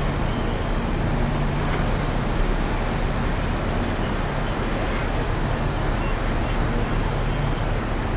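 Steady low rumble and rushing noise aboard a moving cruise ship, with an even hum underneath.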